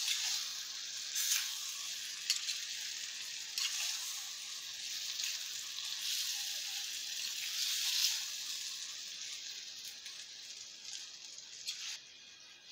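Sliced eggplant frying in oil in a clay pot, sizzling while a metal spoon stirs it, with a few sharp taps and scrapes of the spoon against the pot. The sizzle slowly dies down toward the end.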